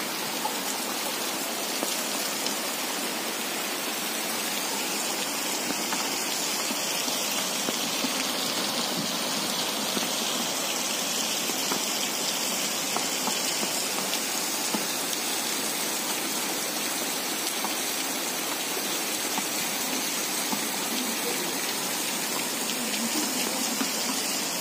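Heavy rain pouring steadily onto bare earth and puddles: a dense, even hiss of falling water.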